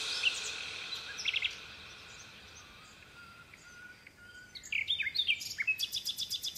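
Birds chirping: a few short chirps about a second in, then from about five seconds a run of quick falling chirps and a rapid high trill.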